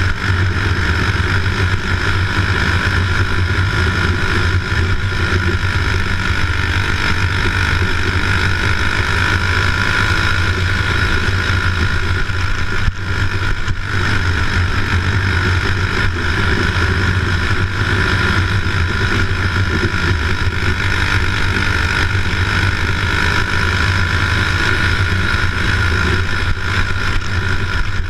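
A steady engine or motor drone, running loud and unchanging, with a deep low hum and a band of higher noise above it.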